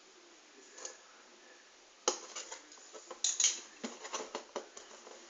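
Cardboard box being handled and opened: a run of sharp scrapes, clicks and rustles that starts about two seconds in after a quiet start.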